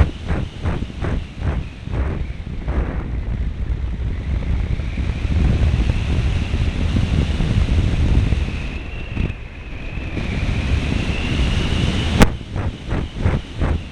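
Wind rushing and buffeting over the onboard camera microphone of a model airplane in flight, pulsing about four times a second at the start and again near the end. Under it is the high whine of the plane's small engine, which rises in pitch shortly before a single sharp click about twelve seconds in.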